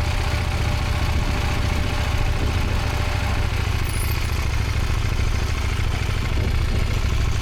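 Motorcycle engine running steadily at low revs, an even low rumble with no revving.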